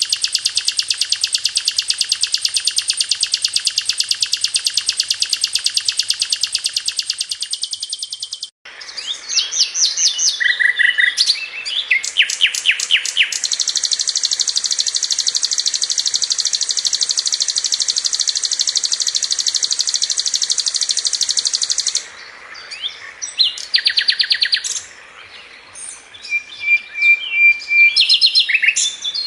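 Sikatan londo flycatcher singing: a long, very fast, high trill of rapidly repeated notes that breaks off about eight seconds in. Short varied chirps and phrases follow, then another long fast trill from about 13 to 22 seconds, then scattered short chirps and notes.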